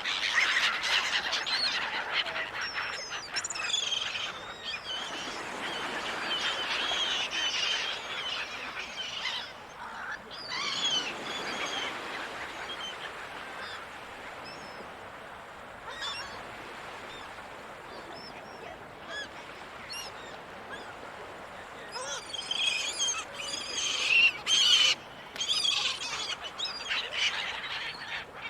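A flock of gulls calling: many overlapping squawks and cries, busy at first, thinning out through the middle and picking up again near the end, over a steady hiss.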